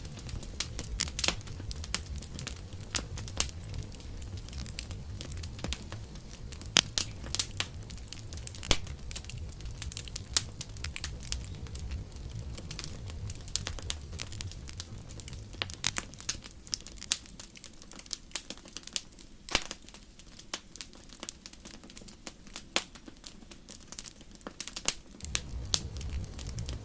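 Campfire burning: irregular sharp crackles and pops of burning wood over a low rumble. The rumble fades about two-thirds of the way through and returns near the end.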